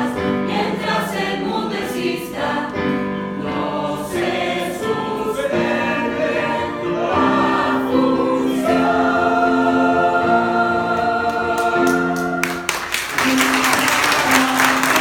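A youth choir singing in parts, closing on a long held chord, then audience applause breaking out about twelve and a half seconds in.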